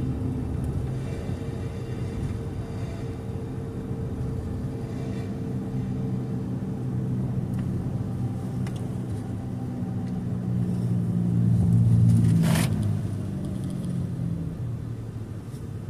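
Car driving on the road, heard from inside: a steady engine and road hum. It grows louder about eleven seconds in and eases off again, with one brief sharp hiss near its peak.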